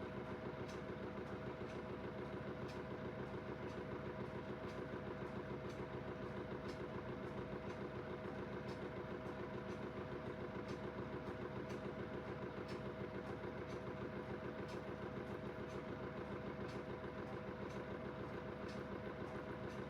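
Aidoo 1 kg mini washing machine's direct-drive motor running steadily on its final spin: a constant hum with several steady tones, and faint ticks recurring throughout.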